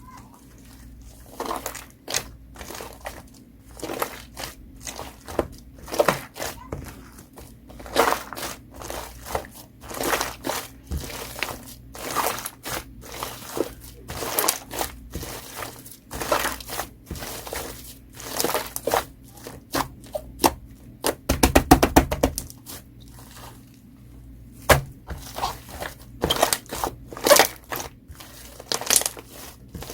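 Clay slime being squished and pressed by hand, crackling and popping in short bursts about once or twice a second. Just past two-thirds of the way through comes a fast run of pops, the loudest part.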